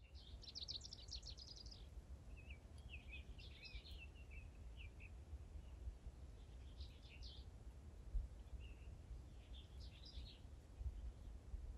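Faint birdsong: a small bird sings several short chirping and warbling phrases a second or more apart, over a low steady rumble.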